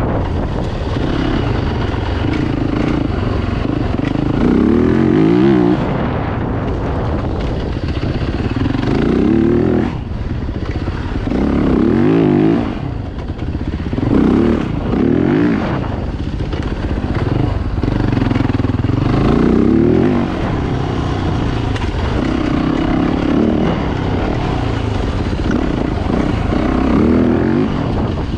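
Dirt bike engines revving up and dropping off again and again, with a swell in pitch every few seconds.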